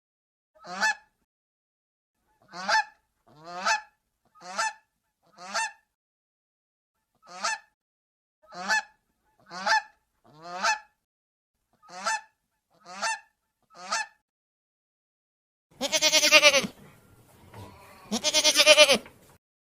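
A goose honking: about a dozen short calls spaced roughly a second apart. Near the end come two longer, wavering bleats.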